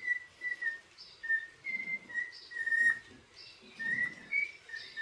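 Pet bird whistling a tune: a run of short clear notes, stepping up and down in pitch.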